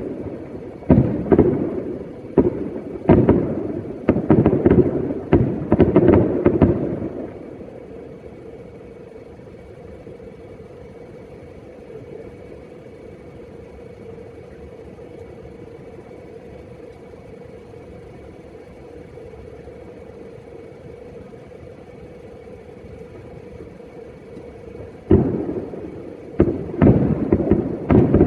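Fireworks exploding: a rapid run of sharp bangs with rumbling echoes that stops about seven seconds in, then resumes near the end after a long lull.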